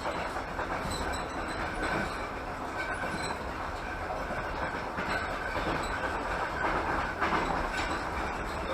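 Passenger train coach running along the line, heard from inside: steady rumble and hiss of wheels on the rails, with a few faint knocks over the track.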